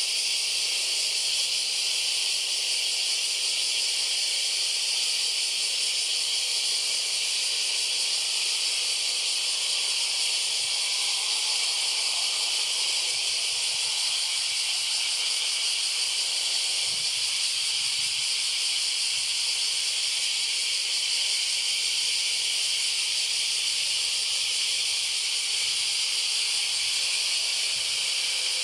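Steady, high-pitched drone of a summer cicada chorus, going on without a break at an even level.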